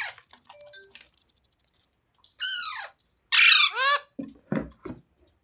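Ringneck parakeet squawking: two loud, harsh calls about two and a half and three and a half seconds in, each dropping in pitch, with fainter short chirps in the first second.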